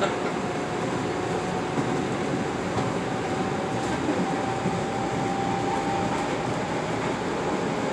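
Metro-North M8 electric multiple unit heard from inside the passenger car while running at speed: a steady rumble of wheels on rail with a faint steady whine above it.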